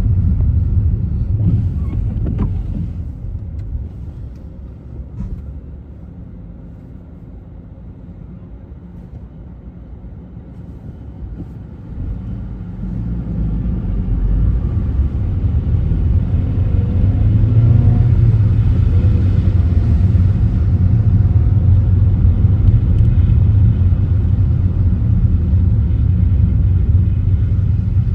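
Car driving, a low road and engine rumble. It fades as the car slows to a near stop, then builds again from about halfway through as the car pulls away and gets back up to speed.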